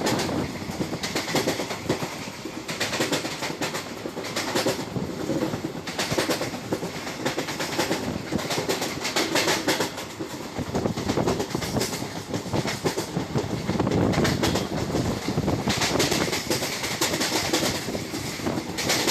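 Passenger train running along the track, a continuous rumble with repeated clickety-clack from the wheels passing over rail joints, heard from inside a sleeper-class coach.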